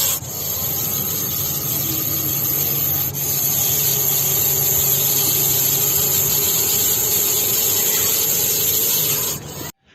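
Russell's viper hissing defensively: a loud, steady hiss that dips briefly about three seconds in and cuts off suddenly near the end. It is a warning to keep away from the snake.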